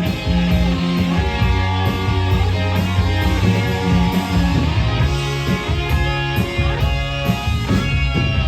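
Rock band playing live: an instrumental passage led by guitar.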